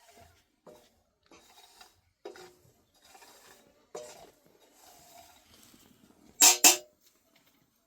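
Cooking pots and utensils being handled: a series of light knocks, clinks and scrapes, then two loud sharp knocks in quick succession about six and a half seconds in.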